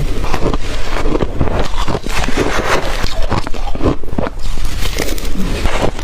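Close-miked chewing of blender-crushed ice: a dense, unbroken run of crisp crunches.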